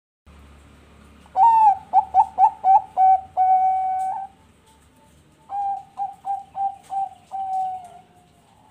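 Zebra dove (perkutut bangkok song strain) cooing in two phrases, each a run of short stuttering notes ending in a long held note. The second phrase is quieter.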